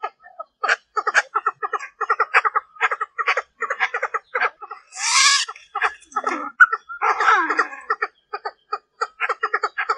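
Female Chinese francolin calling: a fast, uneven run of short clucking notes, several a second, with one harsher, noisier call about halfway through. It is the hen's call used to lure and provoke males.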